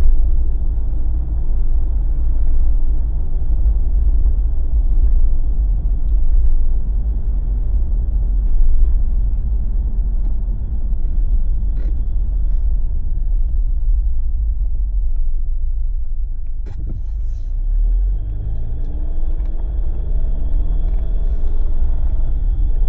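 Steady low road and engine rumble of a Jeep driving. Two short clicks in the middle, and later the engine note rises and falls as the speed changes.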